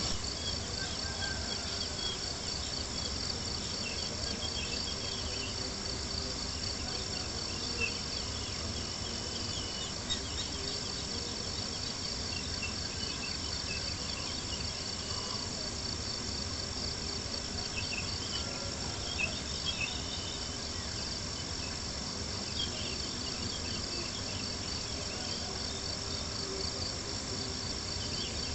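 A steady chorus of crickets chirping at night, over the crackle of a campfire with scattered small pops and a low rumbling bed.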